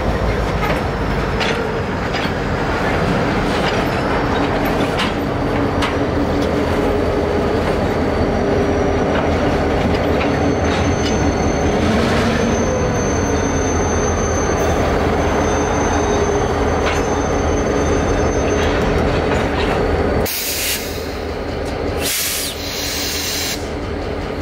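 Freight train rolling slowly past: covered hopper cars and an EMD GP38-2 diesel locomotive with a two-stroke V16 engine, making a steady rumble of wheels on rail. A thin, high wheel squeal is held for several seconds midway. The sound shifts about 20 seconds in, as the locomotive goes by.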